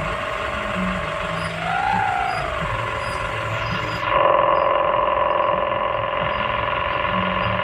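Excavator running with a steady mechanical whine. About two seconds in, the pitch rises and falls once. About four seconds in, the sound suddenly gets louder and holds steady.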